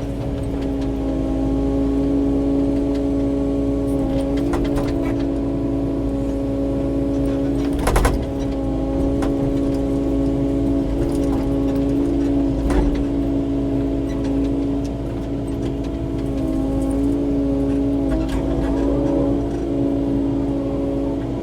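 Kubota KX080-4 excavator's diesel engine running steadily under work, with a steady hum throughout. A sharp knock comes about eight seconds in and another a few seconds later.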